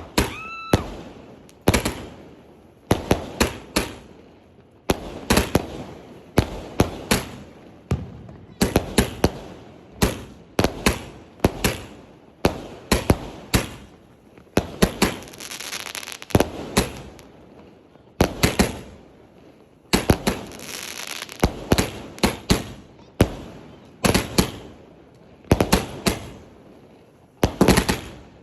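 Sky King aerial firework firing shell after shell: clusters of sharp bangs every second or two, with stretches of crackling between them. A rising whistle sounds right at the start.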